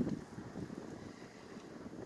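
Wind buffeting the microphone in a blizzard: a strong gust at the start, then a low, uneven rumble.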